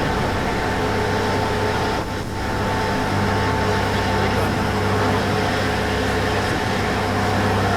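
Passenger ferry's engines droning steadily under way: a constant low hum with a thin steady whine above it, over the rush of wind and water.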